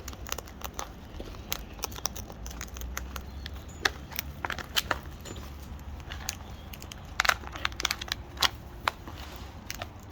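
Parrots cracking and crunching seed in their beaks: a string of short, irregular cracks and crackles, with a cluster of louder cracks about seven seconds in.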